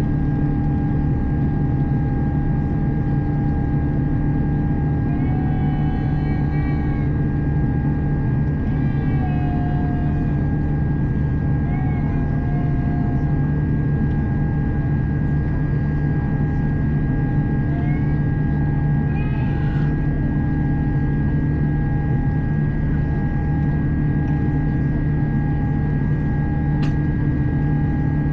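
Steady cabin noise inside an Airbus A350 in flight: an even rush of airflow and engine noise with several steady hums and whines held throughout. Faint, short, wavering high-pitched calls come and go between about five and twenty seconds in.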